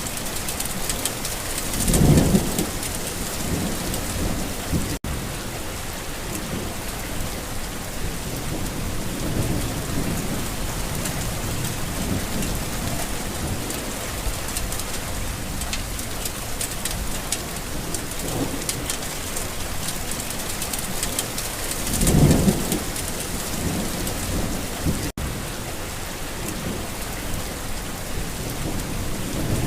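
Steady rain falling on a garden, with rolls of thunder: two loud low rumbles, about two seconds in and again near the end, and fainter ones between. The sound cuts out for an instant twice.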